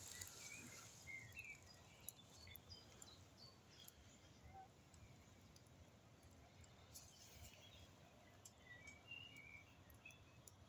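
Burning wood crackling faintly, with scattered sharp pops.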